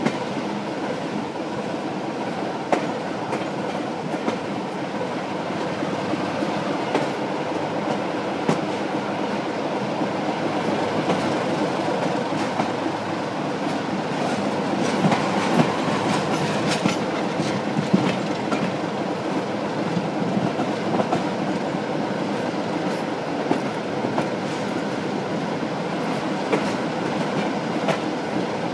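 Diesel-hauled heritage passenger train on the move, heard from an open coach window: a steady rumble of the running train with a faint hum, and scattered clicks and knocks from the wheels over rail joints.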